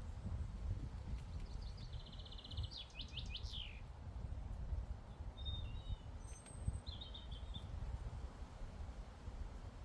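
Songbirds singing: a fast high trill about two seconds in that ends in a few quick falling sweeps, then a short call and another brief trill about seven seconds in, over a low, uneven rumble.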